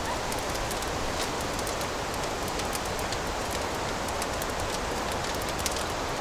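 Wood fire burning in a fireplace: a steady low hiss and rumble with many small, irregular crackles and pops.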